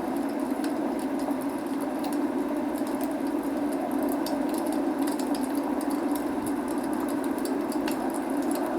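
Log fire crackling with frequent small, sharp pops over a steady rush of rain.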